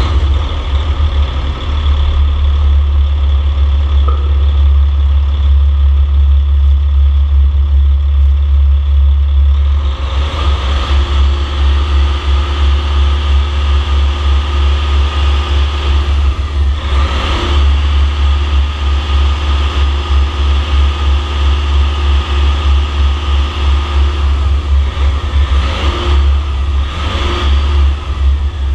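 Caterpillar C13 diesel truck engine running on a test run, idling steadily. About ten seconds in it grows fuller, and it is briefly revved up and back down a few times later on.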